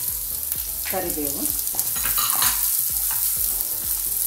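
Green chillies, ginger and curry leaves sizzling and crackling in hot oil in a nonstick kadai, with a spatula stirring and scraping the pan.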